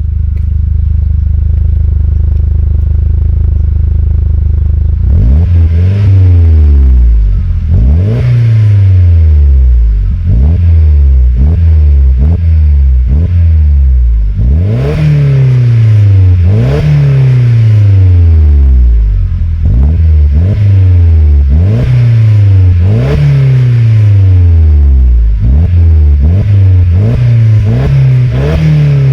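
Audi TT 225's 1.8-litre turbocharged four-cylinder running through a Scorpion aftermarket exhaust: idling steadily, then from about five seconds in revved over and over in quick blips, each one climbing sharply in pitch and falling back more slowly.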